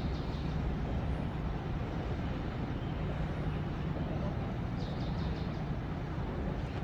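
Steady low outdoor rumble, with two brief clusters of short high chirps: one at the start and one about five seconds in.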